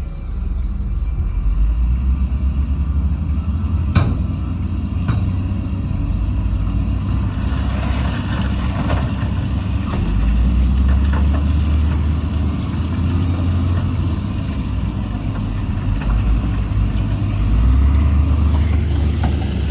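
Heavy diesel construction-machine engine running, its low sound rising and falling in level, with a sharp knock about four seconds in and a hiss a few seconds later.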